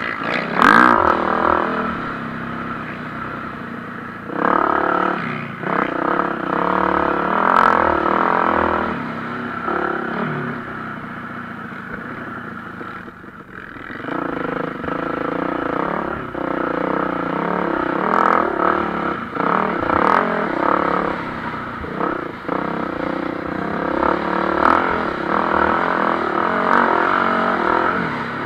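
MX1 motocross bikes racing, engines revving up and down as the riders accelerate, shift and pass, the sound swelling and fading several times and dropping briefly about halfway through. A few sharp clicks are heard among the engines.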